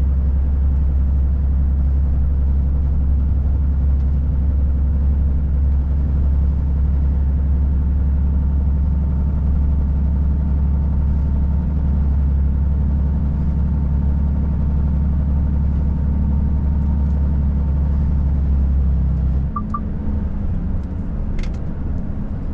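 Volvo FH540 truck's 13-litre six-cylinder diesel running at a steady pull, a deep, even drone. It eases off and drops in level about nineteen seconds in, with a few short clicks near the end.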